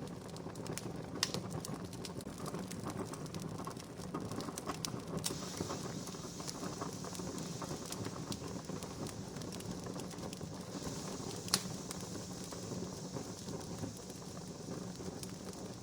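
Wood campfire burning: a steady hiss with scattered crackles and snaps, and louder pops about a second in and a little past the middle.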